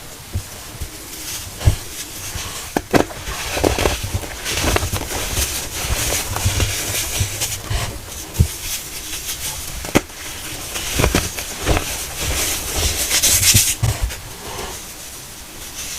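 Pressed baking-soda cones being crushed: irregular sharp crunches and cracks with gritty crumbling between them, growing denser for a couple of seconds near the end.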